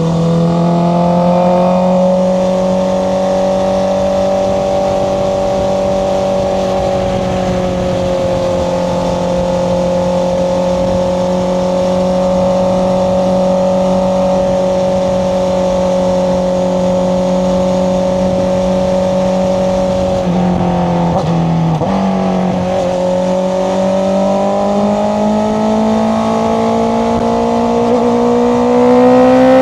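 Honda CBR650R's inline-four engine through an Akrapovic exhaust, running at steady revs while riding. A little past two-thirds through, the note briefly dips and breaks up, then the revs climb steadily and get louder near the end.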